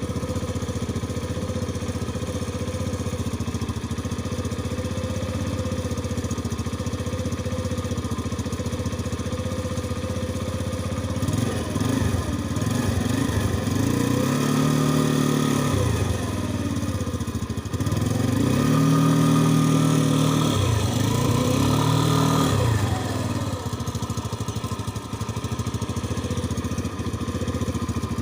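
Mustang's engine idling steadily, then revved up and back down several times in the middle stretch before settling back to idle.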